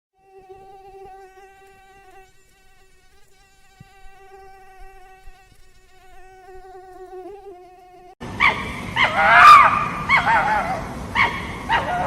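A flying insect buzzing in a faint, steady hum for about eight seconds. Then a dog suddenly starts whining and yipping loudly, in short cries that bend in pitch.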